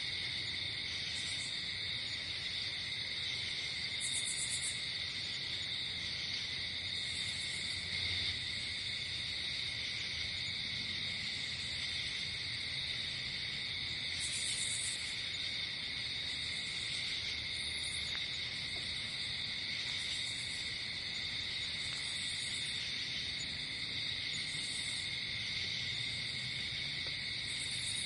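A night chorus of crickets: a steady, unbroken trilling, with short, very high chirps breaking in every two to three seconds.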